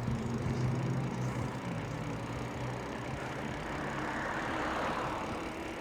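Road traffic: car engines humming low and steady, fading over the first couple of seconds, then the noise of a passing car swelling and dying away about four to five seconds in.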